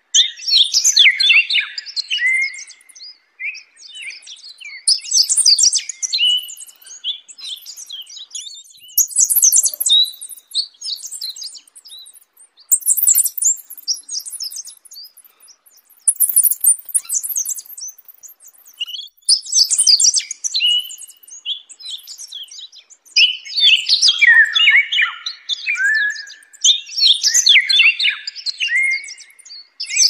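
Birds chirping and chattering in bursts of quick, high chirps, each burst lasting a second or few with short pauses between.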